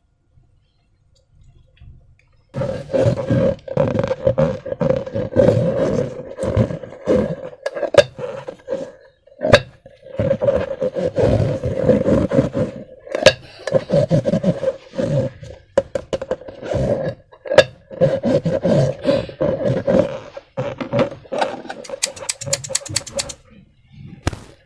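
Rubber balloon with slime being squeezed, its stretched neck buzzing at a steady pitch as it lets air and slime out, with wet crackles and sharp pops. The buzz starts a couple of seconds in and ends with a quick rattle of clicks near the end.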